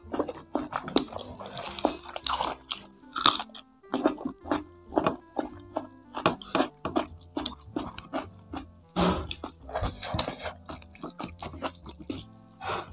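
Close-up chewing of crispy fried chicken and kremes crumbs: many sharp, irregular crunches, several a second, with wet mouth sounds between. Soft background music plays underneath.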